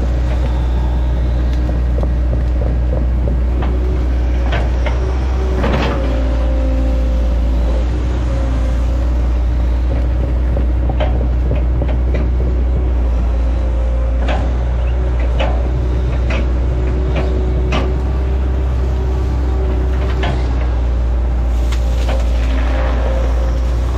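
Hitachi ZX110 excavator's diesel engine running steadily, with scattered sharp knocks and cracks from its work, several coming in clusters about a quarter of the way in and again in the second half.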